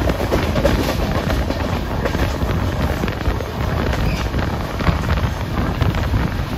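Wind rushing over the microphone from the open door of an express passenger train running at speed, over the steady rumble of the coaches on the track.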